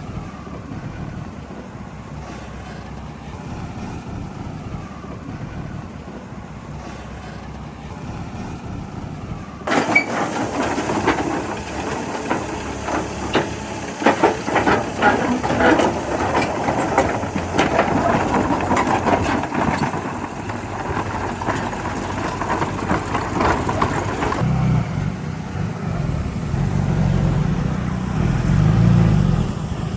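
Heavy diesel earth-moving machinery running steadily, then about a third of the way in a long stretch of dense metallic rattling and clattering that lasts about fifteen seconds, after which the engine runs louder near the end.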